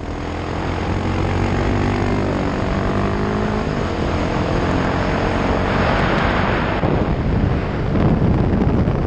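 On-board sound of a KTM 690 SMC R's single-cylinder engine through an open Sebring exhaust with no dB-killer, pulling along a twisty road, its pitch climbing as it accelerates early on. A stretch of wind noise joins in about six seconds in, and the engine gets louder again near the end.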